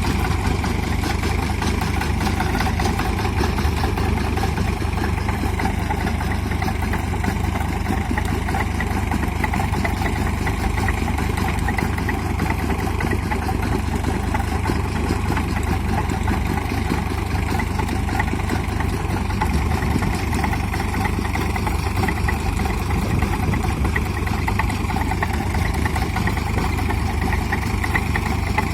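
Sonalika 745 DI tractor's diesel engine running steadily at an even speed.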